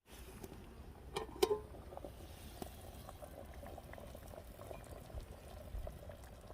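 Pot of chicken broth bubbling steadily at a boil over a wood fire, with scattered small pops and clicks, the clearest two just over a second in.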